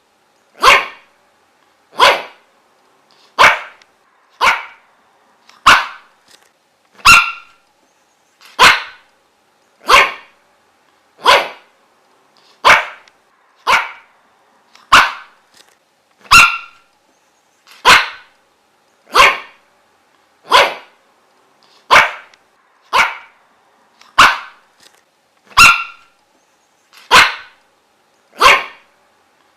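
A dog barking single barks over and over at an even pace, about one every second and a half, with silence between each bark.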